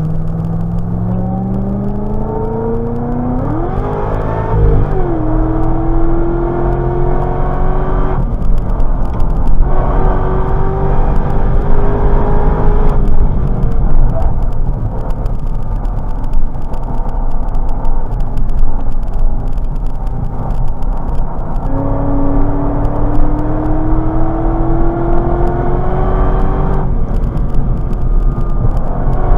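Chevrolet Corvette C6's V8 engine heard from inside the cabin, driven hard on track. The revs climb and hold several times, with brief breaks in between.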